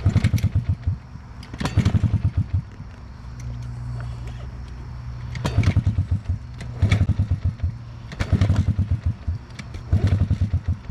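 Honda CRF50 pit bike's small four-stroke single being kicked over six times. Each kick gives a short burst of rapid chuffs that dies without the engine catching: a non-start after it cut out at full throttle, which the rider fears means a blown motor.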